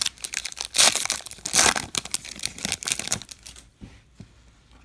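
Foil baseball card pack wrapper being torn open and crinkled by hand: rapid crackling for most of the time, stopping about three-quarters of the way through.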